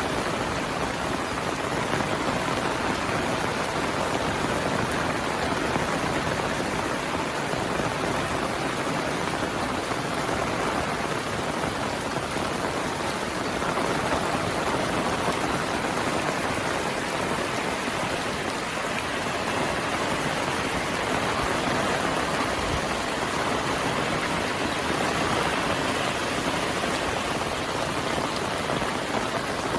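Heavy monsoon rain falling steadily, a dense even hiss of drops.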